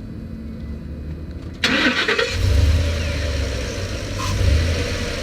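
Ford F-350 pickup engine being started: it catches about a second and a half in with a sudden loud burst, then runs on with a steady low rumble.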